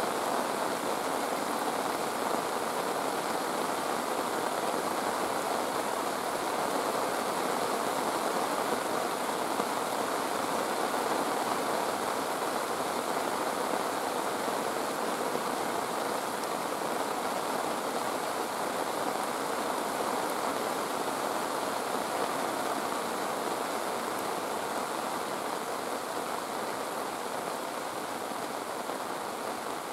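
Steady rushing of water, an even hiss with no breaks, easing slightly near the end.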